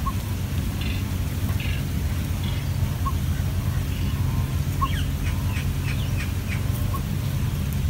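Short, high bird chirps, scattered and then in a quick run about five seconds in, over a steady low hum.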